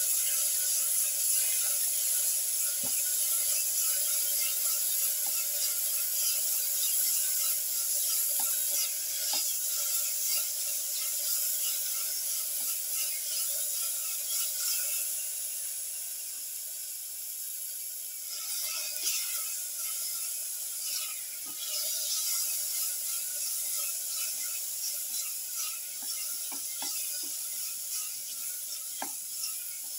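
Tomato pieces, shallots and mint frying in oil in a stainless steel pan: a steady crackling sizzle. A few light knocks of the spatula against the pan come through it.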